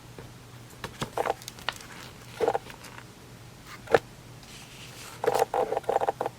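Hard plastic humidifier parts being handled and fitted together: scattered knocks and clicks, the sharpest about four seconds in, then a quick run of small clatters near the end.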